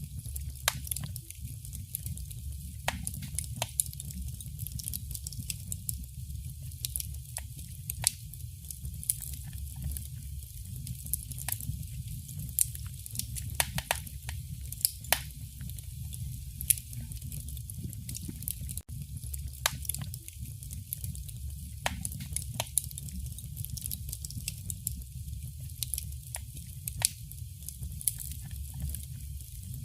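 Wood fire burning in a fireplace: irregular sharp crackles and pops scattered throughout, over a steady low rumble from the flames.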